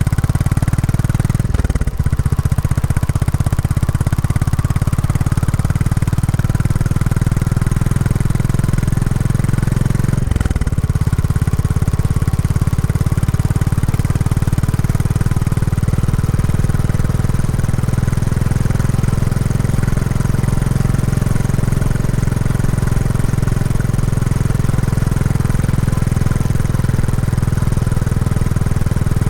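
Royal Enfield Classic 350's single-cylinder engine running through its stock exhaust while riding, a steady low thumping beat that briefly eases twice, about two and ten seconds in. The engine is being run in.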